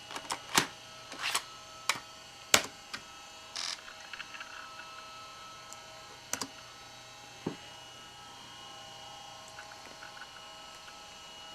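Scattered sharp clicks and taps of a laptop's keys and pointer buttons, bunched in the first few seconds with a few more later, over a steady electrical hum.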